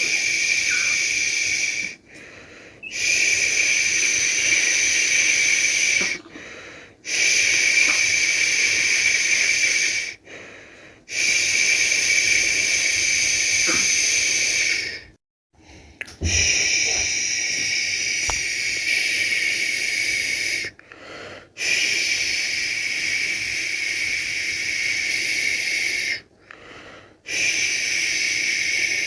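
A person making long, steady 'shhh' shushing sounds to soothe a baby, each lasting about three to five seconds, broken by short pauses for breath, about seven times.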